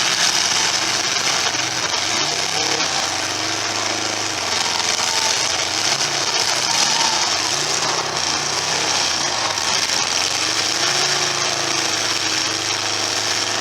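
Several demolition derby car engines running and revving unevenly, their pitches rising and falling over one another, over a dense steady wash of noise.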